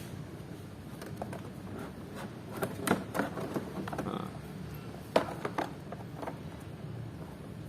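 Scattered clicks, knocks and scrapes of plastic scooter body panels being worked loose by hand, with a sharp knock about five seconds in, over a steady low hum.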